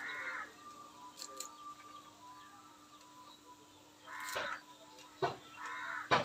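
A bird calling three times in short calls, with a couple of sharp clicks near the end.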